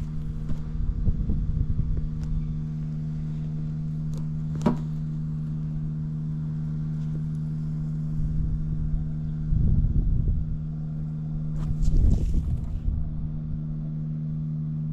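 The inline-four engine of a 1992 Honda Jade 250 (CB250F) idling at a steady, even pitch, with no abnormal noise: a sign of a healthy engine. A few low rumbling swells come over it, and there is one sharp click about five seconds in.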